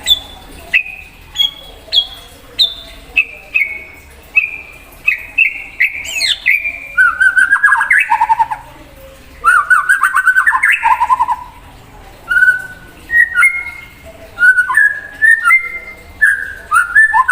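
White-rumped shama singing loudly: a string of clear whistled notes stepping down in pitch, then faster warbled and trilled phrases.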